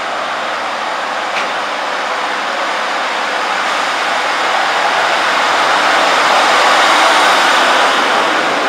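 Diesel multiple unit (a Class 156 and Class 153 pair) running through the platform, its engine and rail noise building gradually over several seconds. A single short click about a second and a half in.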